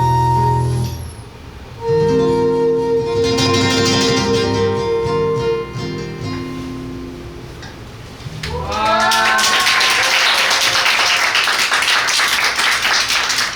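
Flute and seven-string guitar duo ending a tune on long held notes, the last chord dying away. About eight seconds in, the audience breaks into steady applause, with a rising cheer at its start.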